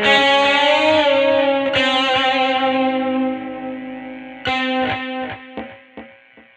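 Squier Vintage Modified Jaguar electric guitar played through an amp: chords struck and left to ring, with a wavering in pitch after the first chord, a fresh strum about four and a half seconds in, then a few short chopped strums as it fades out near the end.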